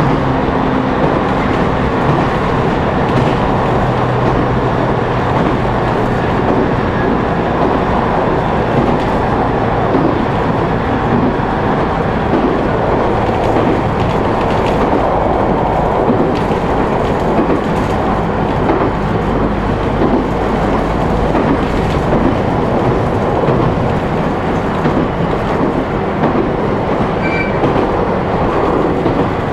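ET127 series electric multiple unit running on the rails, heard from inside the passenger car: steady wheel and rail noise with light clicking from rail joints. A low hum fades out about ten seconds in.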